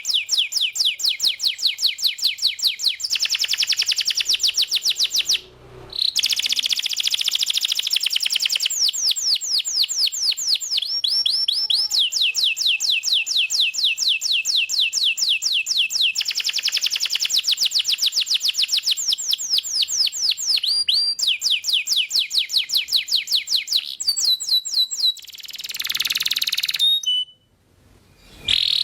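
Domestic canary singing a vigorous, continuous song of fast repeated trill notes, the phrases changing every few seconds. There is a short break about five seconds in and another near the end.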